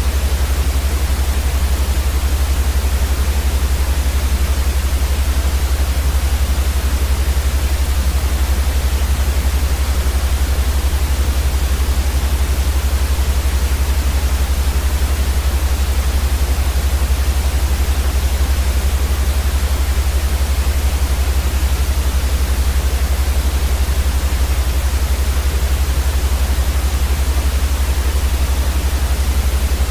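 Steady white noise, an even hiss across the whole range with a strong deep rumble underneath, unchanging throughout.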